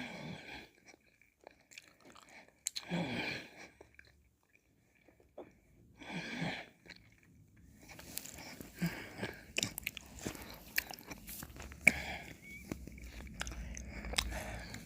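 Close-miked mouth sounds of eating ice cream: three separate wet licks or slurps, at the start, about 3 s in and about 6 s in, then from about 8 s a busy run of wet smacking clicks.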